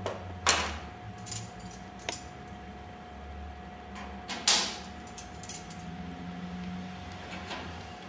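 Display prongs and prong backs being fitted into the holes of a display stand panel: a series of clicks and light rattles, the loudest about four and a half seconds in.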